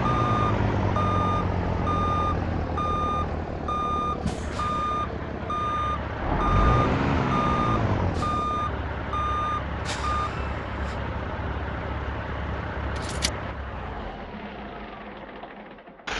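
Truck's reversing alarm beeping about twice a second over its running diesel engine, the beeping stopping about ten seconds in, with a few short hisses of air. The engine fades near the end.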